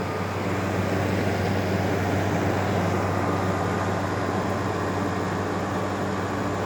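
LG air conditioner running: a steady low compressor hum under the even rush of its fan blowing air over the condenser coils.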